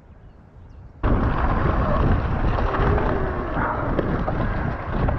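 Wind buffeting the microphone and rumbling trail noise from the mountain bike riding along. It starts suddenly and loud about a second in, after a quiet opening.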